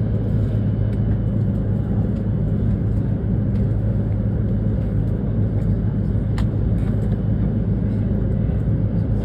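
Steady low rumble and hum heard inside a Hokuriku Shinkansen passenger car, with a few faint clicks.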